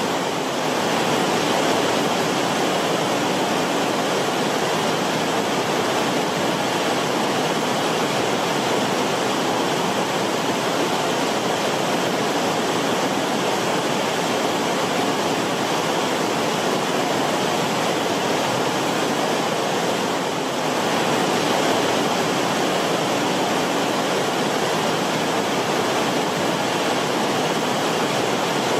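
Creek water flowing and bubbling over rocks in the creek bed: a steady rippling rush.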